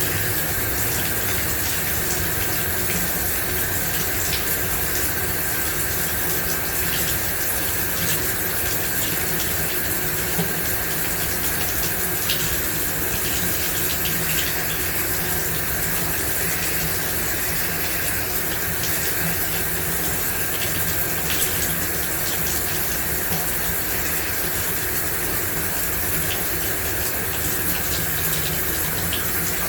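Shower running: a steady, even spray of water with a few faint drip-like ticks.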